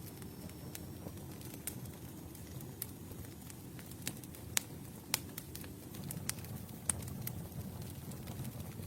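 Campfire burning: wood crackling with scattered sharp pops over a low, steady rumble of flames.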